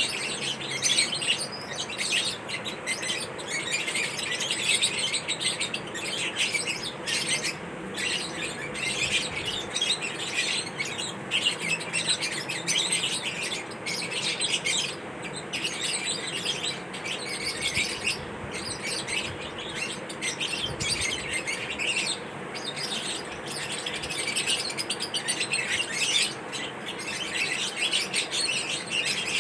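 Caged pet parrots chirping and chattering without pause, many quick high calls overlapping.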